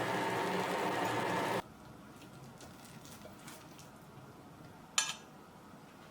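A steady hum with hiss stops abruptly about a second and a half in, leaving quiet kitchen noise with a few faint ticks and one sharp clink of dishware near the end.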